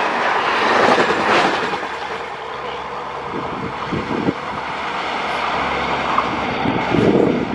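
Passenger train coaches running past at speed, their wheels rumbling and rushing on the rails, with a few sharp knocks from the wheels partway through. The noise falls away as the last coach passes, then swells again near the end.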